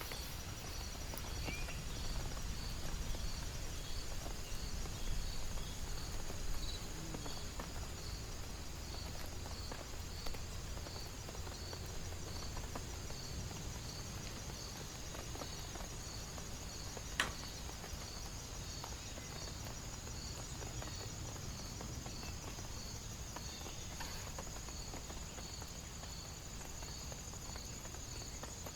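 Insects chirping, a steady high trill with a pulse repeating a little under twice a second, over a low steady rumble. One sharp click about seventeen seconds in.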